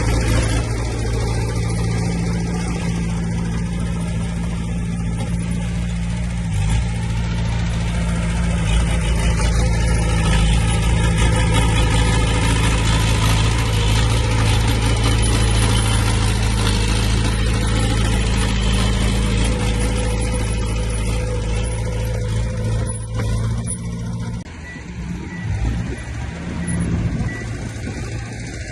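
Heavy diesel earthmoving machinery engines running steadily under load. The sound drops off about 24 seconds in, and a few faint, evenly spaced beeps follow near the end.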